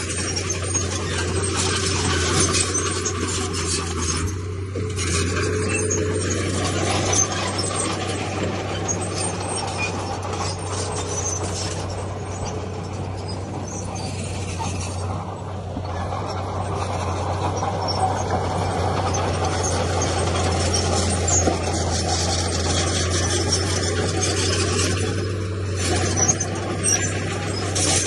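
Komatsu D31P bulldozer working: a steady diesel engine drone under continuous metallic clatter and squealing from its tracks and blade as it pushes stone.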